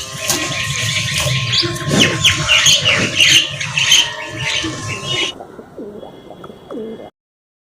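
Birds chirping and calling, a dense run of short high chirps with some clicking. It thins out about five seconds in and cuts off near the end.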